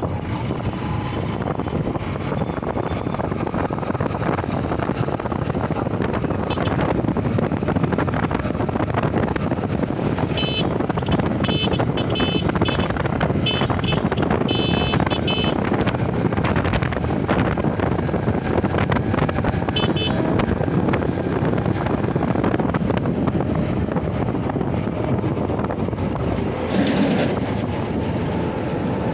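Steady riding noise from a Honda Shine SP 125, a 125 cc single-cylinder motorcycle: engine and wind rush while under way. Quick runs of short horn beeps come about a third of the way in and again after twenty seconds.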